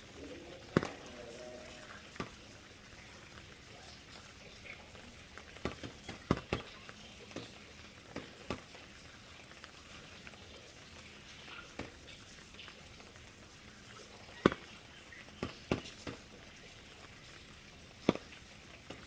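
Rain falling with a steady soft hiss, while big drops strike a surface in sharp, irregularly spaced taps, a dozen or so of them with a few close clusters.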